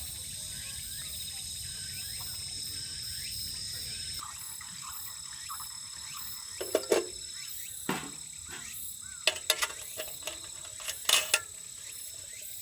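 Steady high chirring of an insect chorus over a low background hiss. In the second half, a handful of sharp knocks and clicks are the loudest sounds.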